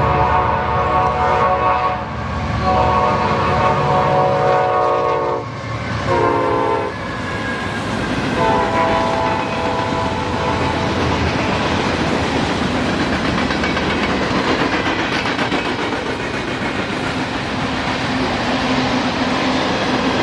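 Locomotive air horn sounding the grade-crossing signal, long, long, short, long, its pitch dropping during the short blast as the locomotive passes. Freight cars then roll by with a steady rumble and clickety-clack of wheels over rail joints.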